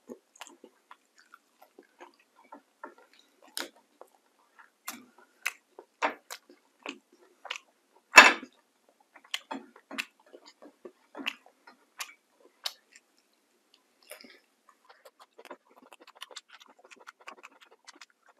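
Close-miked chewing: a person eating with open-mouth smacks and wet clicks at an uneven pace, one much louder smack about eight seconds in, and a quicker run of small clicks near the end.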